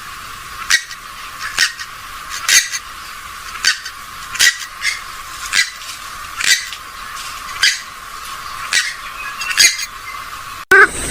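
Recorded gallinule calls (swamphen or moorhen), a series of short, sharp clipped notes repeated about once a second, played as a lure for the birds.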